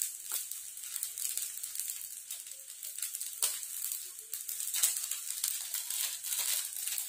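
Fried rice and noodles sizzling faintly in a wok, a steady soft hiss, with a few light crackles as crispy fried shallots are crumbled in by hand.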